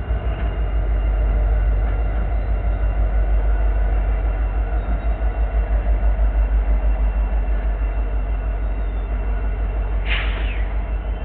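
EMD SD70ACe diesel-electric locomotives rolling past with a train in tow: a loud, steady low engine drone that pulses evenly. About ten seconds in comes a brief high-pitched squeal that slides downward.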